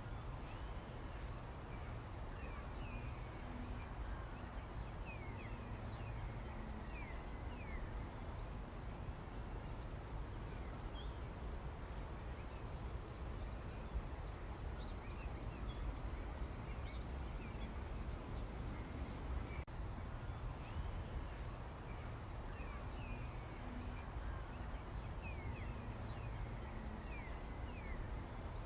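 Small wild birds chirping and calling, many short calls scattered throughout, over a steady low rumble.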